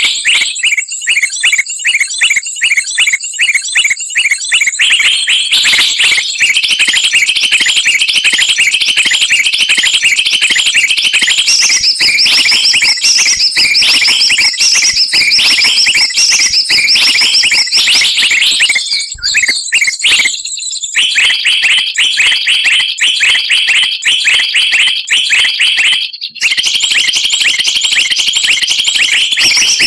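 Bird-trapping lure recording: a loud, dense mix of many small songbirds chirping and twittering rapidly at high pitch. It drops out briefly twice in the latter half.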